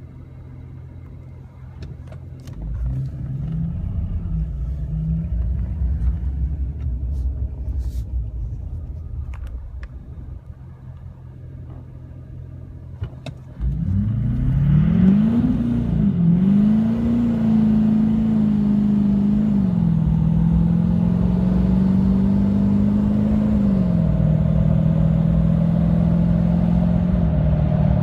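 Tuned, emissions-deleted 2015 Duramax 6.6-litre V8 turbo-diesel pickup with a 5-inch exhaust: the engine runs low, swells and falls back, then about fourteen seconds in goes to full throttle. The loud engine note climbs and drops back at each upshift, about three times, as the truck accelerates hard.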